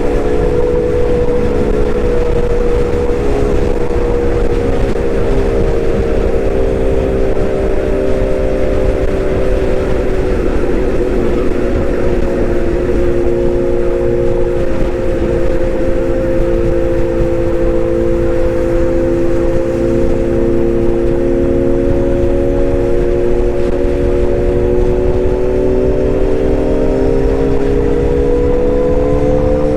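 Small electric motor of a toy excavator running with a continuous whine, dipping slightly in pitch through the middle and rising again near the end.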